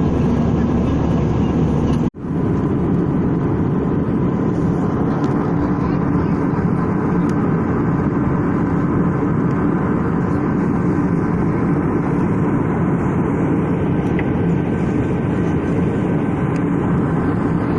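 Steady noise of an Airbus A320 airliner under way, an even rush with a low hum. It cuts out for a split second about two seconds in.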